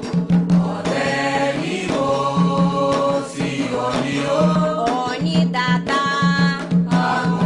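A group singing a chant for the orixás, accompanied by drumming with regular struck beats.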